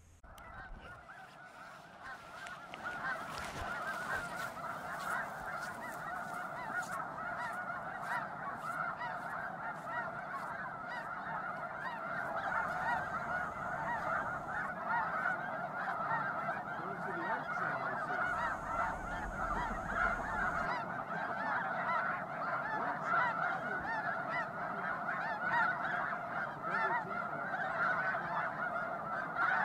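A large flock of snow geese and Ross's geese honking together in a dense, continuous chorus that swells over the first few seconds and then holds steady.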